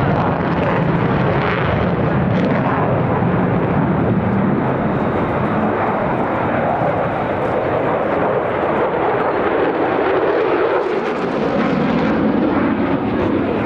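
Mitsubishi F-2B fighter's jet engine, a single F110 turbofan, roaring loudly as the jet makes a low pass. Its pitch sinks over the last few seconds as it goes by.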